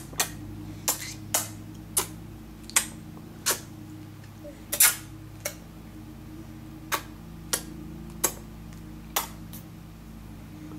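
Kissing noises: a run of about fourteen short, sharp lip smacks at an uneven pace, roughly one every half second to a second, over a steady low hum.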